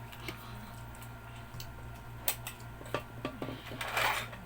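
Scattered small clicks and taps from people eating chicken feet, with a brief rush of noise near the end, over a steady low hum.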